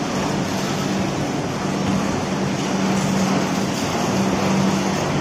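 Steady rumble of a passenger train, with a low hum that comes and goes.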